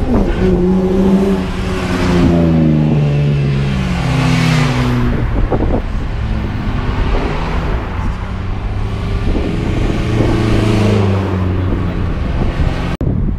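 A car engine revving, its note sliding down and climbing again several times, with a rush of exhaust noise about four to five seconds in; the sound breaks off abruptly near the end.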